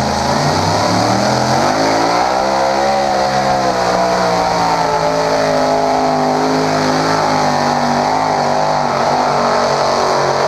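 Competition puller's engine running at high revs under heavy load as it drags the weight-transfer sled. The pitch climbs about two seconds in, eases slightly, then holds steady.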